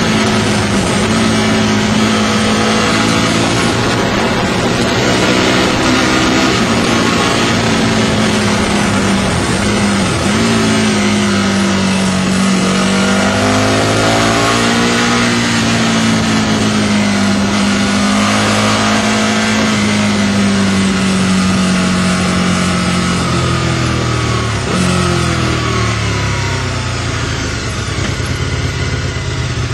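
Aprilia RSV Mille's V-twin with an aftermarket Micron exhaust, ridden on the road, its note rising and falling with the throttle over a steady rush of wind noise. Revs climb about twelve seconds in, and the engine note falls away after about twenty-four seconds as the bike slows.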